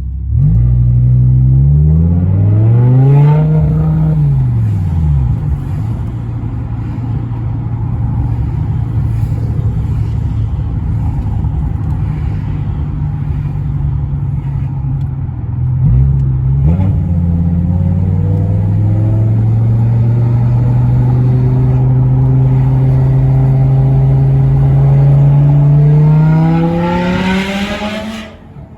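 BMW M6 (E64) convertible's S85 V10 engine accelerating: revs climb over the first few seconds and drop back, hold fairly steady, then climb slowly in a long pull that rises sharply near the end before cutting off.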